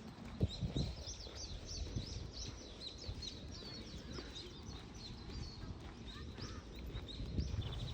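Small birds chirping in a quick series of short high notes, then a brief rapid trill near the end, over a steady low outdoor rumble.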